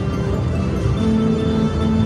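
Music from a slot machine's bonus-win sequence, held low notes changing to a new chord about a second in.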